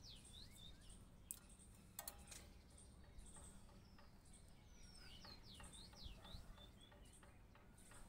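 Faint bird song: a short phrase of quick whistled notes, heard at the start and again about five seconds in, with a few faint clicks in between.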